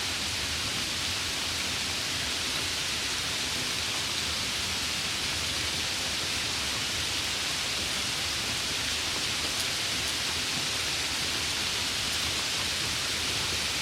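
Steady rain falling, a continuous even hiss with no distinct drops or thunder.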